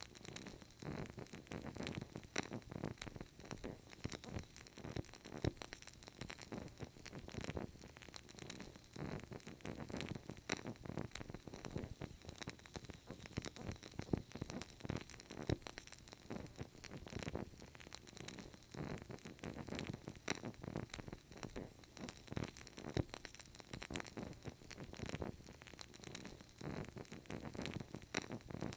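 Burning candle crackling: a steady run of tiny clicks and pops over a faint hiss.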